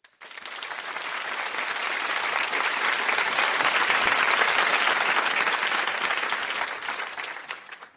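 Applause from a crowd, many hands clapping. It swells in, peaks around the middle and fades out near the end.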